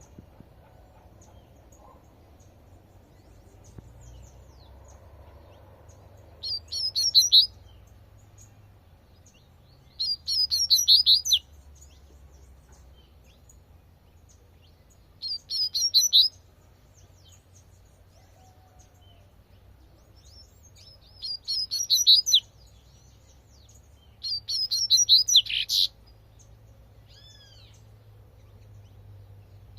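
Double-collared seedeater (coleirinho) singing its 'tui tui' song: five short phrases of rapid high notes, each about a second long, with pauses of a few seconds between them.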